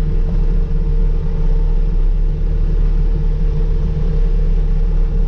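Case skid steer's diesel engine running steadily, with a steady whine above the low engine drone.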